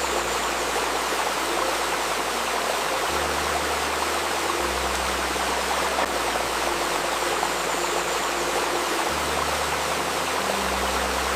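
Steady rush of a babbling river. Soft, low held tones sit underneath it and change pitch every couple of seconds.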